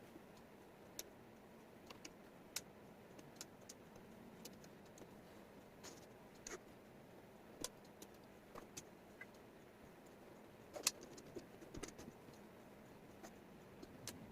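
Wooden jigsaw puzzle pieces clicking and tapping as they are handled and set down, irregular sharp clicks over a quiet background, the loudest about eleven seconds in.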